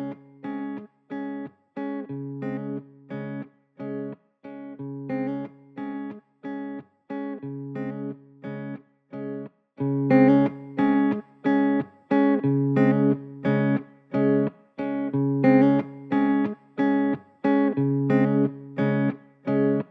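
Guitar intro: picked chords in a steady, repeating rhythm, getting clearly louder about halfway through.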